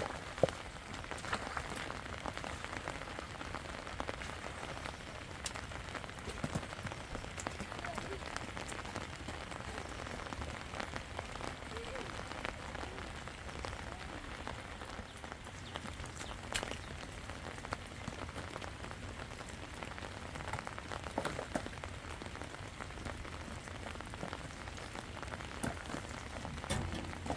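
Steady rain falling, with a few scattered sharp drop ticks.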